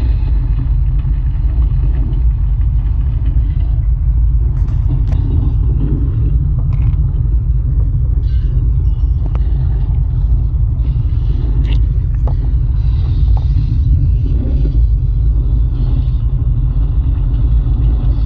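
A Sensurround-style earthquake rumble sound effect played at high volume: a loud, steady, deep rumble with a few faint clicks over it.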